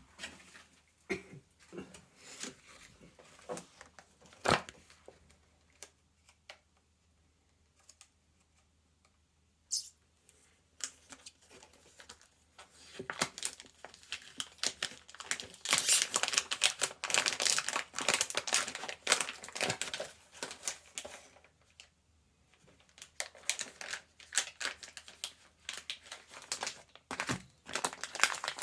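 Hands tearing and crinkling something crisp. Scattered clicks and knocks come first, then long bursts of dense crackling from about halfway through, with a short pause between them.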